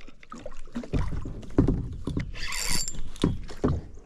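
Handling noise from fighting a largemouth bass on rod and reel: irregular knocks and clicks, with a short hissing burst about two and a half seconds in.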